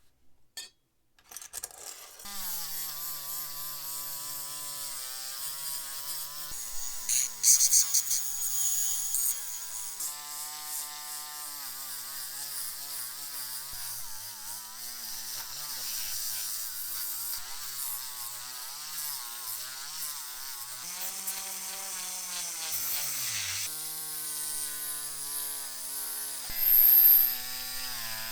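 A small electric power tool starts about two seconds in and runs with a wavering pitch under load, with a scratchy grinding hiss over it. A little after twenty seconds the motor slows and its pitch drops, then it picks up again.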